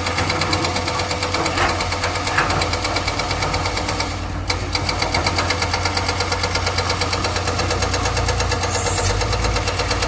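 Excavator's diesel engine running with a rapid, even knocking beat and a deep hum, the note rising slightly about eight seconds in.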